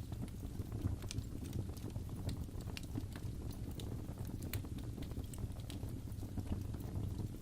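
Wood fire crackling in a fireplace: a steady low rumble of flame with irregular sharp snaps and pops.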